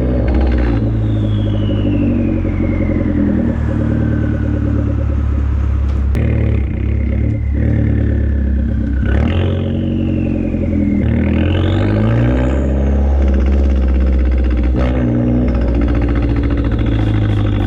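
Fiat 500 Abarth's turbocharged four-cylinder engine running loud through a catless downpipe and catless cat-back exhaust while the car drives, revving up and easing off through the gears. A high whine falls and rises with the engine speed.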